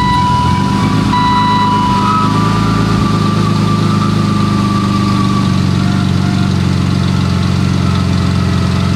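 BMW E36 straight-six engine idling just after start-up, freshly fitted with six new spark plugs and ignition coils after misfiring on two cylinders. The idle settles slightly lower about five and a half seconds in. A steady high electronic beep sounds during the first two seconds.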